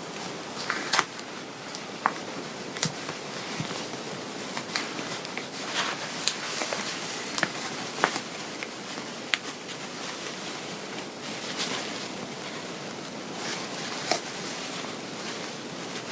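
Dress fabric being handled and adjusted by hand: soft rustling with scattered light clicks and taps, over a steady hiss.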